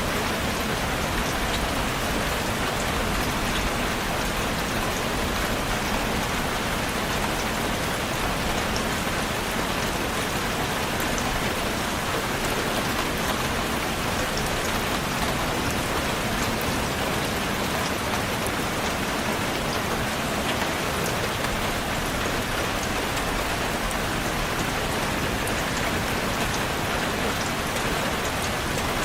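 Steady rain falling on a surface, a dense even hiss of raindrops with faint individual drop ticks.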